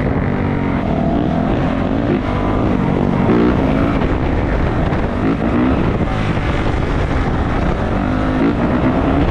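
A 450cc four-stroke dirt bike engine running while being ridden, its revs rising and falling several times as the throttle is worked.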